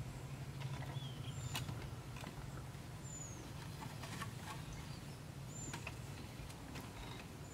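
Short high bird chirps, four or five in all, each gliding slightly down, over a steady low hum, with a few faint knocks of wooden poles being handled on the pen rails.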